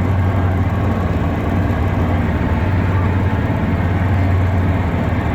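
Two-stroke jet outboard motors on a jon boat running at a steady speed, a constant low hum.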